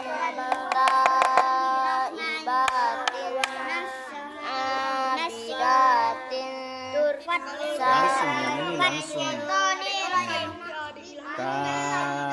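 A child's voice singing a drawn-out melodic line, with a few sharp clicks about one to three and a half seconds in.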